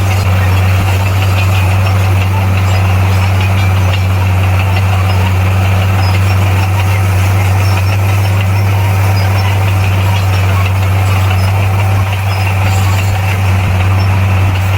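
Heavy earthmoving machine's diesel engine running steadily at an even pitch, a loud, deep, constant hum.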